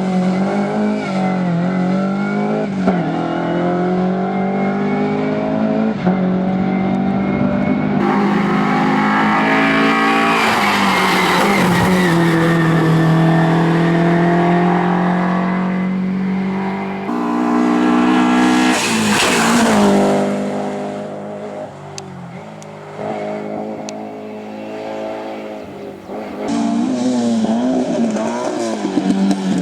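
Racing car engines revving hard, their pitch climbing and dropping with each gear change. One car passes close about two-thirds of the way through, the sound dies down briefly, then another engine approaches near the end.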